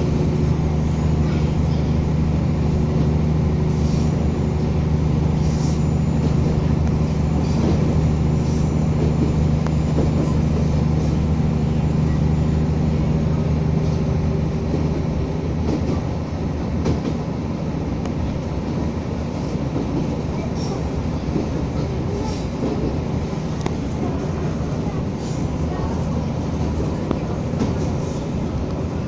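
Materfer diesel railcar under way: a steady engine drone for about the first half, giving way to a rumble of running gear with scattered short clicks.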